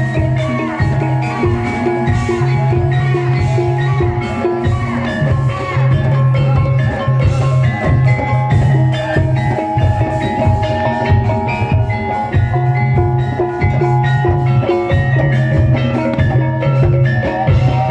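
Javanese gamelan music for a barongan dance: drums beating a fast pattern under bright metallophones playing a repeating melody.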